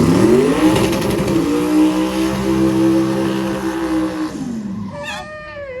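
Car engine accelerating hard: its pitch climbs over the first second and a half, holds high and steady for a few seconds, then drops away about four seconds in.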